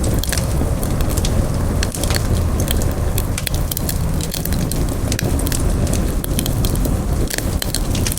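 Campfire burning with a steady low rumble and hiss, and many small irregular pops and crackles from the burning wood.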